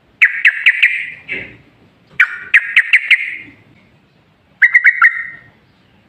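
Trucukan (yellow-vented bulbul) singing three short song phrases a second or so apart, each a quick run of sharp notes trailing off.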